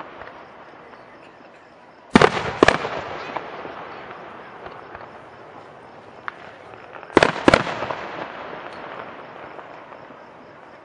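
Aerial fireworks shells bursting: two pairs of sharp bangs, one about two seconds in and one about seven seconds in, each pair followed by a long fading rumble.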